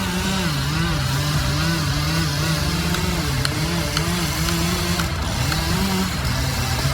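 An engine running, its speed rising and falling repeatedly as the load on it changes, with a few faint clicks.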